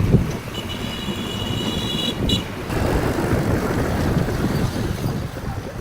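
Yamaha WaveRunner jet ski running on the water, with wind rushing over the microphone.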